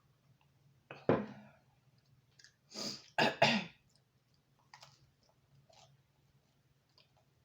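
A person clearing their throat and coughing: one loud burst about a second in, then three more close together around three seconds in. Faint small mouth clicks follow.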